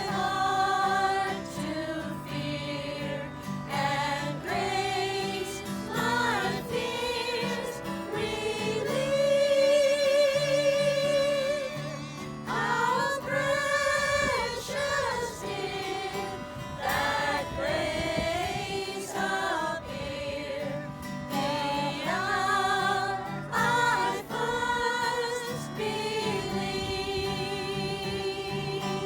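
A group of voices singing a gospel hymn, with long held notes and vibrato, over a low instrumental accompaniment.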